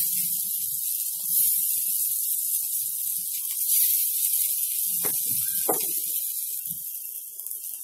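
Marinated potato tikka skewers sizzling in a hot pan as they sear: a steady high hiss.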